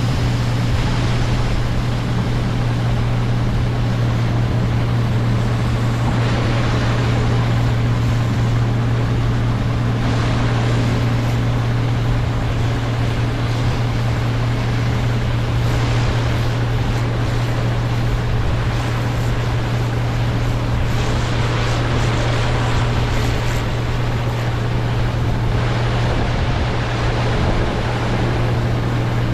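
Heavy diesel farm machinery running steadily, a constant low engine hum under a rushing noise that swells slightly several times.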